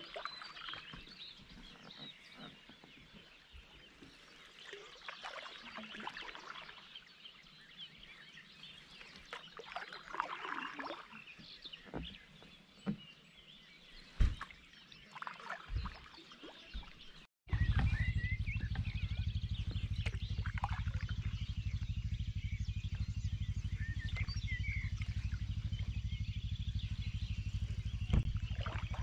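Birds chirping and singing, with a few sharp knocks. About two-thirds of the way through the sound breaks off, and a steady low rumble comes in under the birdsong.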